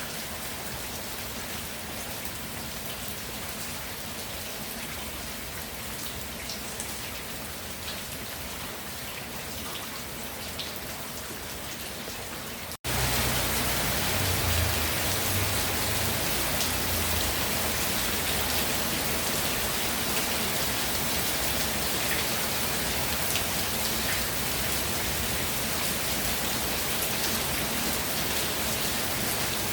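Steady rain falling, a dense even hiss with scattered drop ticks. A little under halfway through, the sound cuts out for an instant and comes back louder and fuller, with more low rumble.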